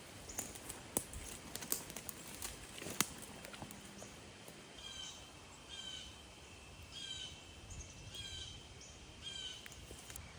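A bird calling over and over in the woods, a short pitched call about once a second, around five times in the second half. Before that, a scatter of light clicks and taps.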